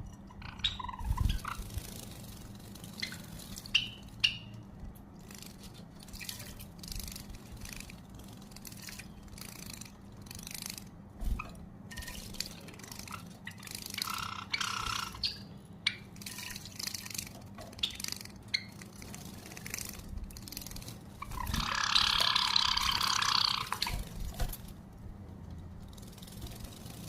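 Java sparrows bathing in a shallow water dish: scattered small splashes and drips, with a longer, louder burst of splashing about 22 seconds in.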